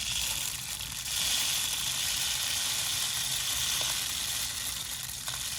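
Tannerite's granular ammonium nitrate and aluminium powder being shaken in a container to mix it, a steady gritty hiss that starts abruptly.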